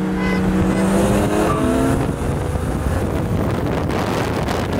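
BMW M3's twin-turbo straight-six revving hard as the car slides sideways through a turn, its pitch climbing over about two seconds. It then gives way to a rough, steady rushing noise.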